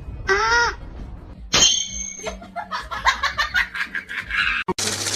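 A cat meows once, followed by a person's laughter in quick choppy bursts. Near the end the sound cuts off abruptly into a steady hiss.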